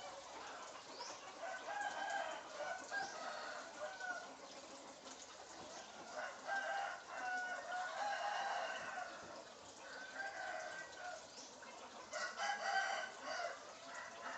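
Repeated crowing and clucking calls like a rooster's, coming in about four phrases with short gaps between them.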